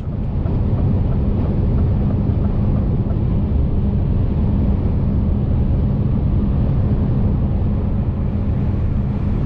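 Scania lorry driving on the road, heard from inside the cab: a loud, steady rumble of engine and road noise with a low hum, coming in suddenly at the start.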